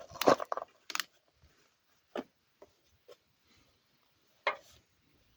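A few separate small clicks and light knocks of hand handling, the sharpest about a second in, with quiet between them.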